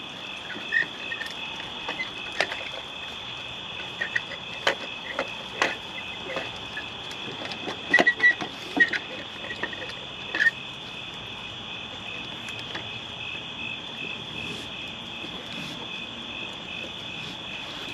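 Night insects trilling steadily at a high pitch, with scattered clicks and knocks and a few short high chirps.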